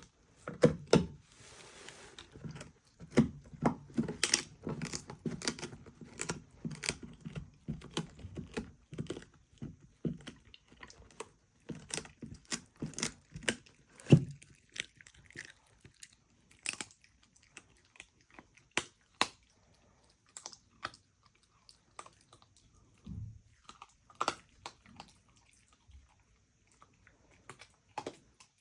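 A dog chewing and crunching food, with irregular crunches that come thick and fast for the first half and more sparsely later on.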